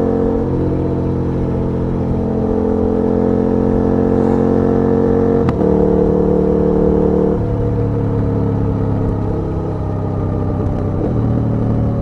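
KTM 1290 Super Duke R's V-twin engine running under way, its note climbing slowly. About five and a half seconds in a sharp click comes as the note steps to a new pitch, and the note changes again about two seconds later.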